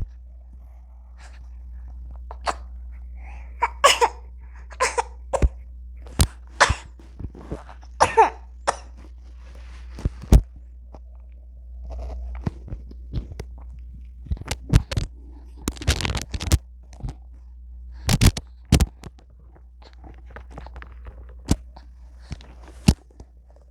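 An infant's short coughs, sneezes and small vocal sounds, coming in scattered bursts with sharp clicks in between, over a low steady hum.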